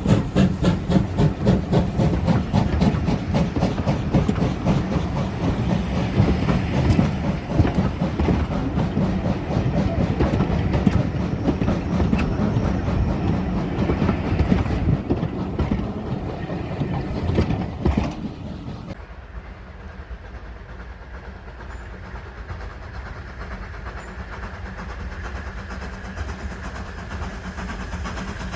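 Steam-hauled train running past, with fast regular exhaust beats and wheels clattering on the rails. About 18 seconds in the sound drops suddenly to a quieter steady rumble.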